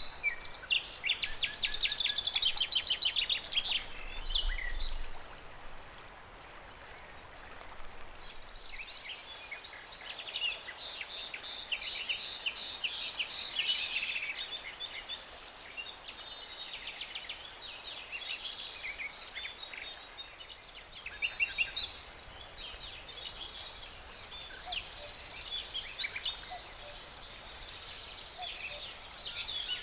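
Songbirds singing in bursts of quick, high trills and chirps, with quieter pauses between phrases.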